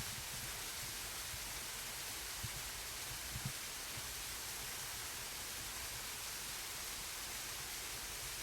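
Small waterfall pouring steadily into its plunge pool: an even rush of falling water. A few faint low bumps come through about two and three and a half seconds in.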